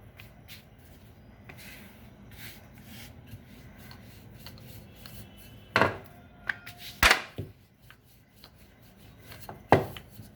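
Dough being rolled out with a rolling pin on a floured board: a soft rubbing, then three sharp wooden knocks at about six, seven and ten seconds in.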